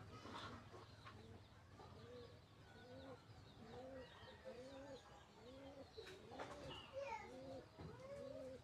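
Faint bird calls: a run of short, low cooing notes, each rising and falling, about two a second, with fainter high chirps from other birds over them.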